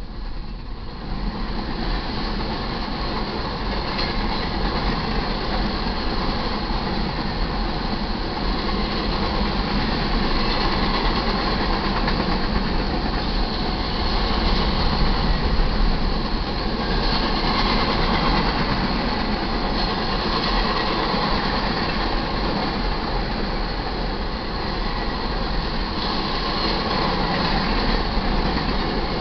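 Freight train of covered hopper cars rolling past a grade crossing: a steady rumble and rattle of steel wheels on rail, swelling slightly in the first couple of seconds and then holding even.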